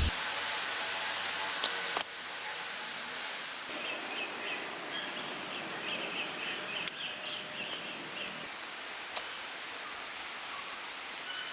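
Outdoor rain ambience: a steady hiss with scattered sharp taps, and a run of faint chirping in the middle. The hiss drops a little just after a tap about two seconds in.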